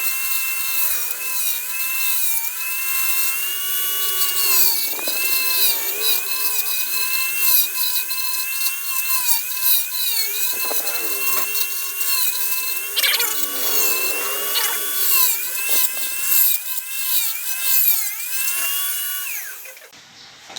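High-speed rotary grinder with a round-headed bit grinding plastic motorbike body panels, trimming edges and widening mounting holes for a closer fit. Its high whine dips in pitch each time the bit bites into the plastic and recovers between passes, then winds down and stops near the end.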